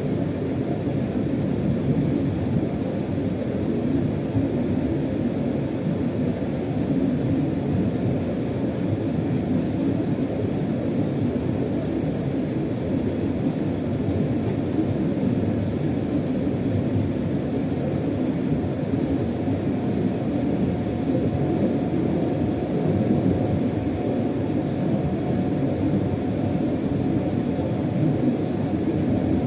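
Steady rumble of a freight train under way, heard inside the locomotive's driver's cab. A faint steady whine joins about two-thirds of the way through.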